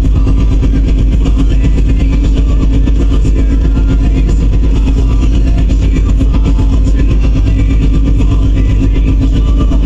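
A loud, steady machine drone with a deep hum and a constant mid-low tone, unchanging throughout.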